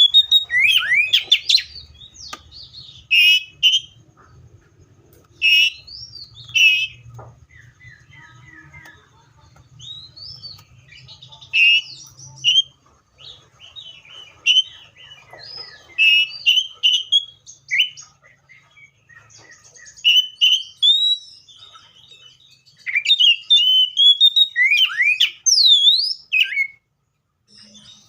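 Seychelles magpie-robin singing: phrases of varied whistles, chirps and sliding notes separated by short pauses. A faint low rumble runs underneath through the first half.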